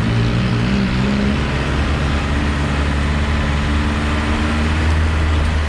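A 4x4 vehicle's engine running steadily under way at an even pitch, with road and tyre noise.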